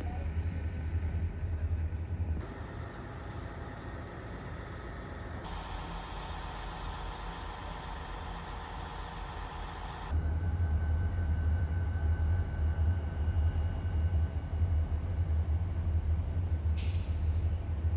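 Passenger train running with a steady low rumble, its sound changing abruptly about two, five and ten seconds in as if from spliced shots, with a short hiss near the end.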